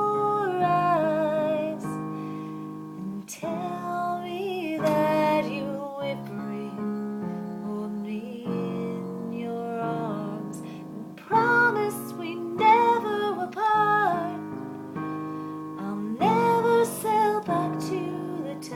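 A woman singing a slow song, her held notes wavering with vibrato, over a steady instrumental accompaniment.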